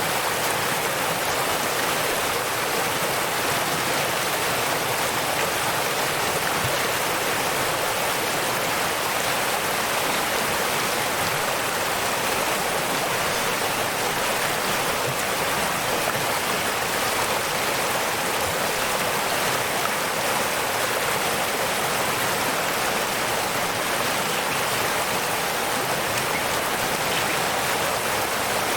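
Waterfall: steady rushing of falling water, unbroken and even.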